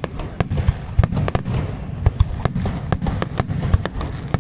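Fireworks display: aerial shells and crackers bursting in quick irregular succession, several sharp cracks a second over a continuous low rumble of detonations.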